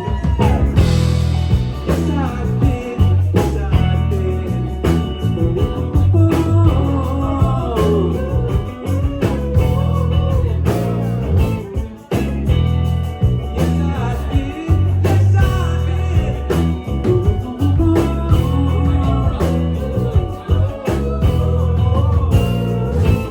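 Live rock band playing loudly: guitar over bass and drums, with a sliding melodic line, and a short drop in loudness about halfway through.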